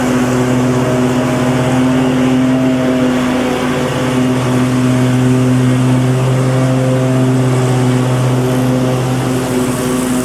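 Lawn mower engine running loudly at a steady speed, its pitch holding constant.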